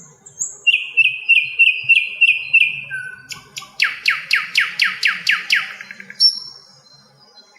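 A sikatan londo flycatcher singing: a run of about eight repeated clear notes, then a rapid trill of about a dozen downward-sweeping notes, then a few high, thin notes near the end.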